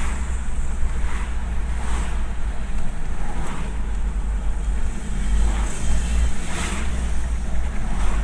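Nissan ZD30 3.0-litre four-cylinder turbo-diesel running with a steady low rumble, after the fuel filter and injectors were replaced and the intake manifold cleaned for hard starting and low power. Irregular whooshing surges come every second or two.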